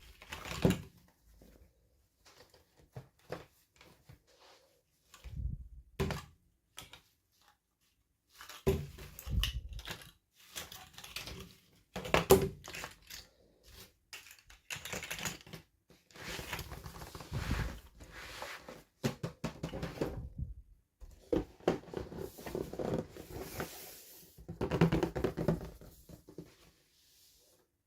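Hands handling small plastic toys and their packaging: irregular clicks, taps and rustling with short pauses, busier in the second half.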